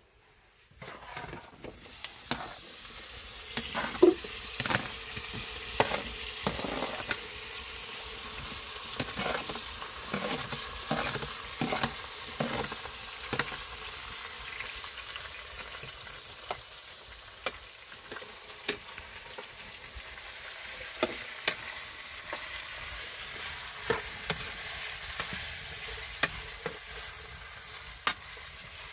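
Food sizzling in a frying pan, starting about a second in, with a utensil clicking against the pan now and then as it is stirred.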